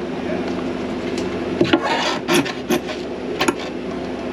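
Several sharp metal clanks and scrapes from a semi truck's air brake line being handled and disconnected, with a short rushing noise about two seconds in. A steady engine hum runs underneath.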